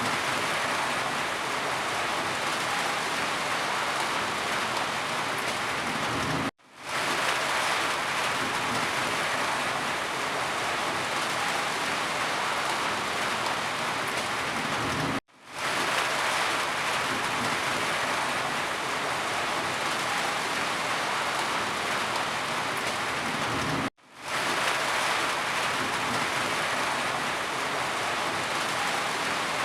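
Steady heavy rain falling. It cuts out suddenly three times, each time for a split second, and quickly fades back in, like the seams of a looped recording.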